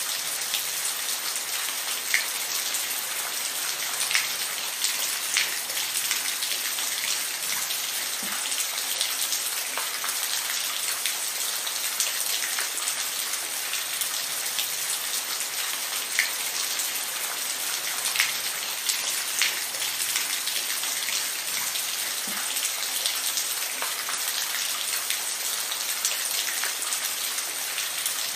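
Steady rain falling, an even hiss with scattered sharper drips landing close by.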